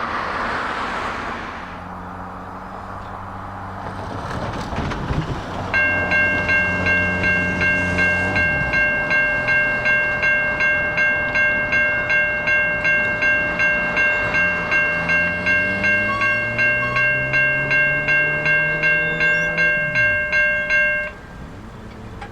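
Railroad bell ringing about two and a half strokes a second, starting about six seconds in and cutting off suddenly near the end. Under it, diesel locomotive engines run, their pitch rising steadily as they throttle up and then falling away just before the bell stops.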